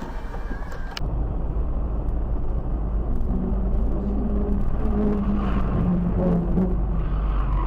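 Car on the road: a steady low engine and road rumble, with a wavering mid-pitched tone joining about three seconds in.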